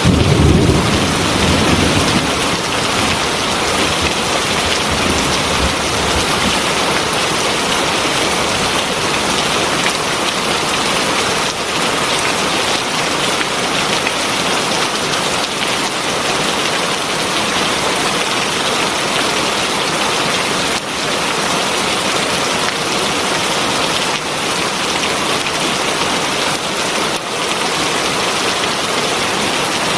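Heavy rain falling steadily, a dense even hiss of drops on surfaces. A low rumble sounds at the very start and fades over the first few seconds.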